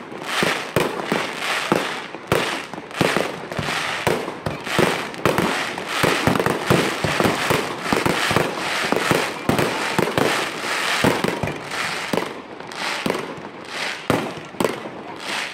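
Professional fireworks display: a rapid, continuous barrage of aerial shell bursts, several bangs a second, with crackling from glittering stars between them.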